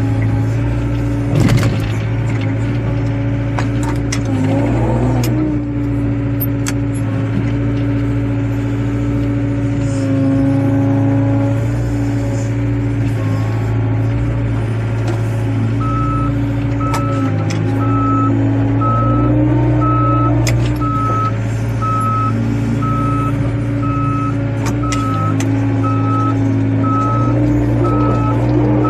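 Diesel engine of a wheeled excavator running steadily, its pitch dipping and rising a little as it works, with scattered clicks and knocks. About halfway through, a reversing alarm starts beeping steadily, about one and a half beeps a second.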